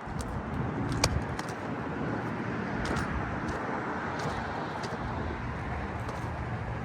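Steady vehicle noise with a sharp click about a second in.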